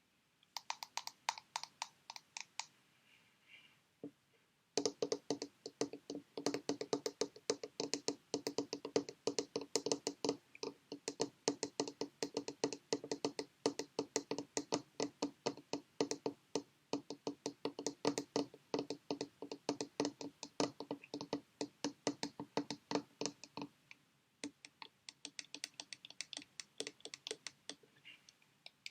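Rapid tapping on sheet mask packets, many quick taps a second in steady runs. There is a brief pause about three seconds in, then a long, louder stretch, and lighter taps near the end.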